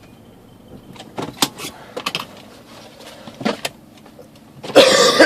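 Handling noises inside a car: scattered clicks and knocks, then a loud noisy burst lasting about half a second near the end.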